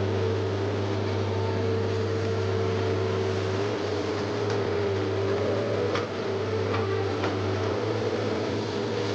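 Komatsu PC130F excavator running steadily at work, a low engine hum with a higher tone that wavers over it, and a few light knocks about six and seven seconds in.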